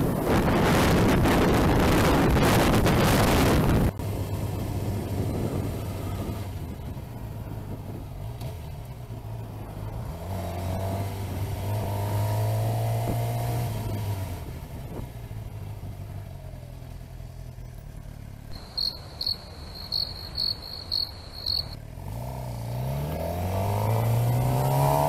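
Motorcycle engine running, with heavy wind rush on the microphone for the first four seconds, then a steady engine hum whose revs rise and fall twice. About 19 seconds in come six short, high-pitched electronic beeps, evenly spaced.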